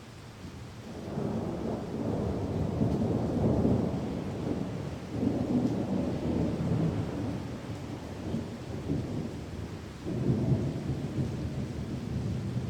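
Rolling thunder over steady rain, in three swells: one building from about a second in, a second starting around five seconds in, and a third about ten seconds in.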